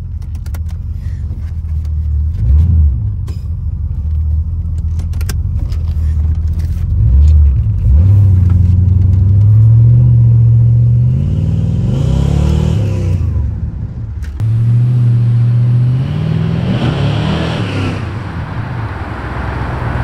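C4 Corvette's 5.7-litre V8 heard from inside the cabin under acceleration: a steady low drone whose pitch climbs twice, with a brief drop-off between the two pulls.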